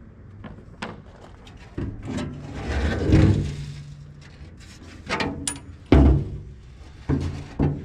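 Knocks, clunks and scraping clatter of a fuel tank and parts being handled and moved, with a rushing swell about three seconds in and a heavy thud about six seconds in.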